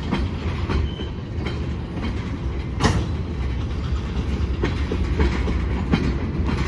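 A freight train moving slowly on the rails: a steady low rumble with scattered clicks and clanks of wheels over rail joints, one knock louder than the rest about three seconds in.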